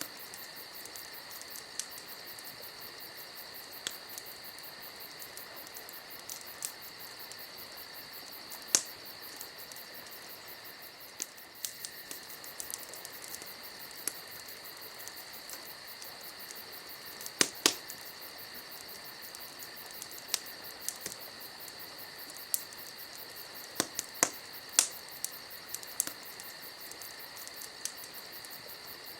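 Campfire crackling, with sharp pops scattered irregularly, the loudest near the middle and about three-quarters through, over a steady chorus of chirping insects.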